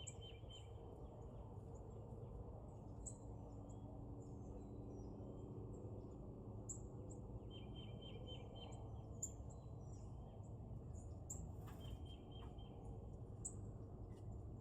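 Wild birds calling at a feeder: sharp high chip notes every second or two, with a few short rapid trills, over a steady low background rumble.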